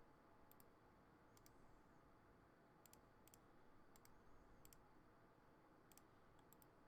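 Faint computer mouse clicks over near silence: about eight short clicks, most in quick press-and-release pairs, spaced a second or so apart.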